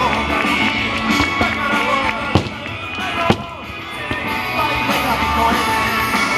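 Music with a rock feel playing throughout, with two sharp firework bangs about a second apart near the middle.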